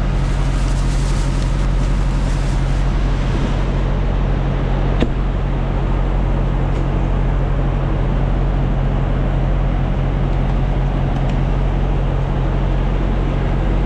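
Semi-truck's diesel engine running with a steady low drone, with a single sharp click about five seconds in.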